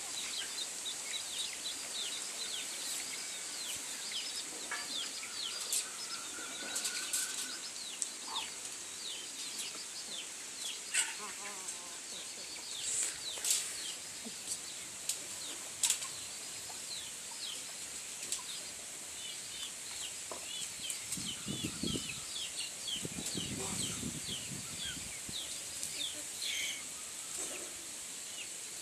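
Aseel chicks peeping: many short, falling cheeps repeated throughout. A steady high-pitched hiss runs beneath them, with a few sharp clicks.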